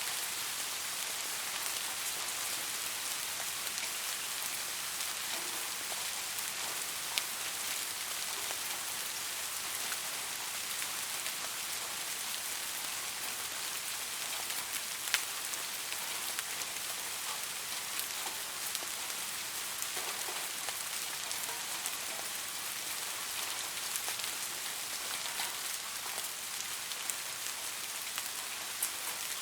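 Steady rainfall, a dense even hiss with scattered louder individual drops striking a surface.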